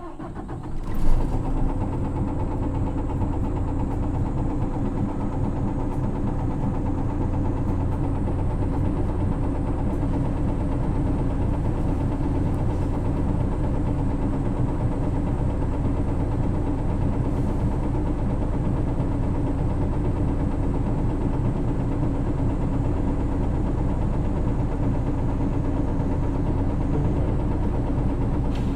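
Isuzu PKG-LV234L2 city bus's 6HK1 inline-six diesel idling steadily while the bus stands before pulling away, heard from inside the bus. There is a short loud knock about a second in.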